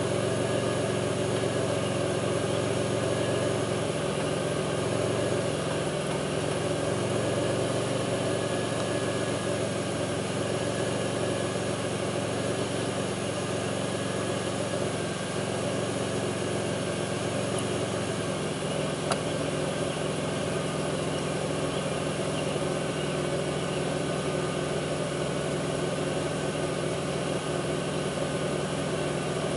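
2002 Pontiac Grand Prix's 3800 V6 idling steadily, its low drone shifting a little past halfway through, with a single click soon after. The owner complains of a rough idle with a faint intermittent thumping that pulls the idle down.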